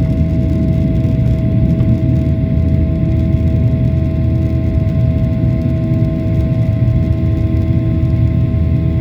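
Boeing 737-800 cabin noise: the CFM56 turbofan engines running steadily as a loud, even low rumble with several steady humming tones above it.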